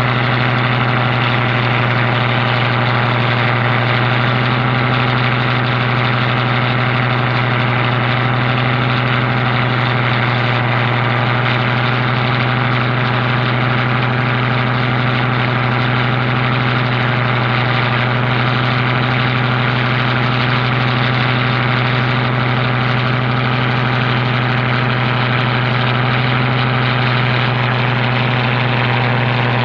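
Boat engine running steadily at a constant speed, an even drone that holds one pitch throughout.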